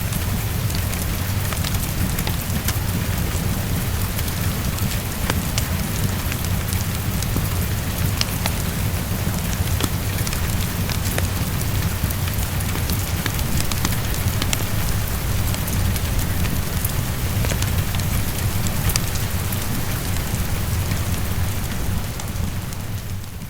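Heavy rain pattering steadily against a window, with a low rumble beneath it and the scattered sharp pops of a crackling wood fire. It all fades out near the end.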